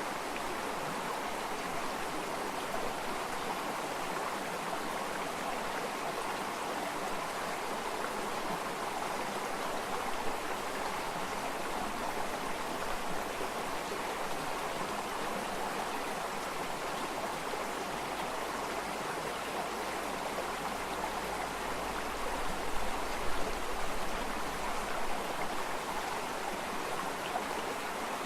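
Water flowing steadily, like a stream, with a few louder surges near the end.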